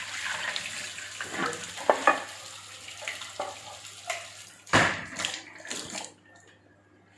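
Water running from a kitchen tap, with a few sharp clinks of dishes about two seconds in and a louder knock near five seconds; the running stops about six seconds in.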